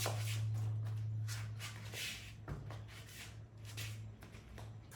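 Rustling and handling noises as a mountain bike is turned upside down, over a steady low hum.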